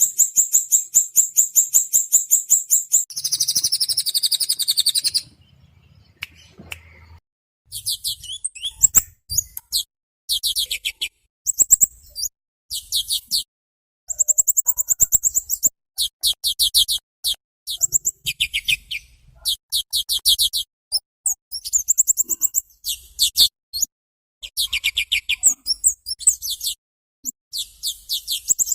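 Small songbird song recorded as masteran (tutor song for training songbirds): rapid, high-pitched trills of quickly repeated notes in bursts of one to three seconds, with short gaps between them. There is a short lull about five seconds in.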